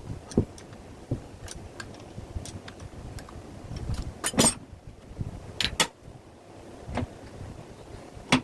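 Irregular clicks and knocks of objects being handled, with a louder clatter about four seconds in and another shortly before six seconds, over a faint low background hum.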